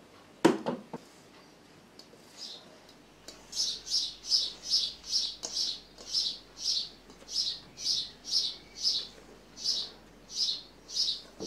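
A few sharp knocks about half a second in, then a small bird chirping over and over, short high chirps about two to three a second.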